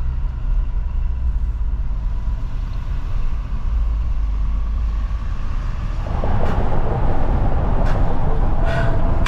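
Motor vehicle running with a steady low rumble, which grows louder and rougher about six seconds in.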